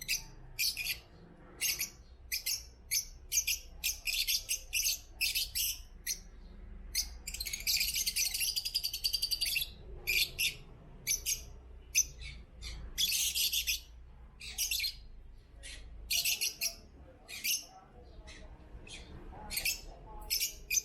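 African lovebirds chirping: a busy run of short, high-pitched chirps, broken by a few longer bursts of chatter.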